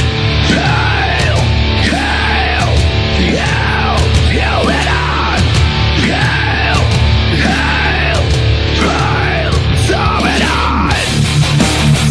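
Heavy metal music: an instrumental passage of distorted electric guitar playing a repeated phrase of rising-and-falling bent notes about every second, over bass and drums.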